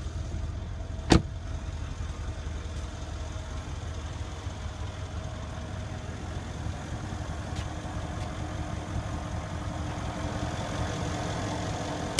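A Mercedes-Benz E63 AMG 4MATIC S's 5.5-litre twin-turbo V8 idling steadily, with one sharp click about a second in.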